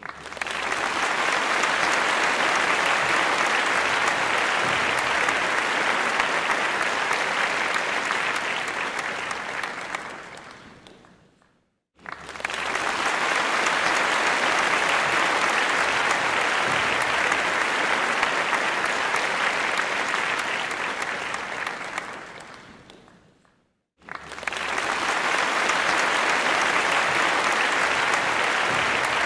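Crowd applause that swells in, holds steady, then fades to silence and starts over, twice, about every twelve seconds: a looped applause recording.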